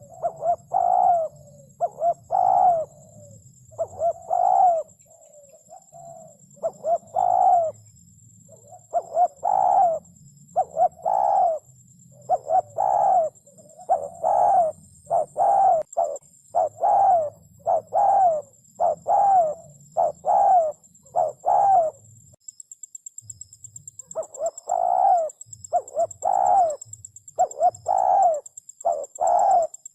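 Spotted dove cooing over and over in repeated phrases of low coos, with a short break about three-quarters of the way through.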